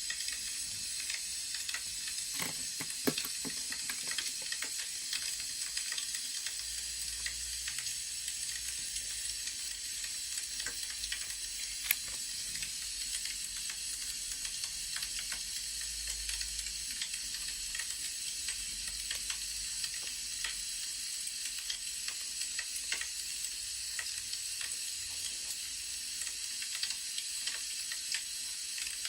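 Wood fire crackling: a steady hiss with many small pops and snaps, and a sharper snap about twelve seconds in.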